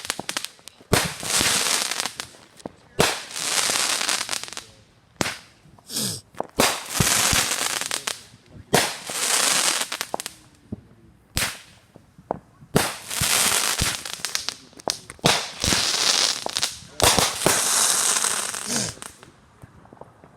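Fireworks going off in a quick series of about a dozen bursts. Each starts sharply and runs into a second or two of hissing crackle.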